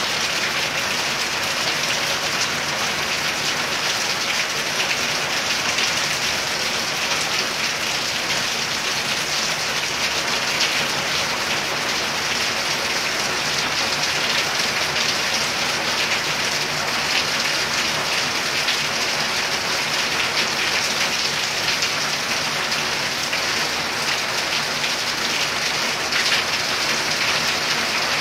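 Heavy rain pouring down steadily: a dense, even hiss that does not let up.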